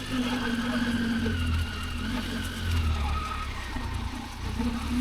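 Motorcycle engine running while being ridden on a rough dirt road, a steady low rumble with a whine that slowly falls in pitch over the first few seconds.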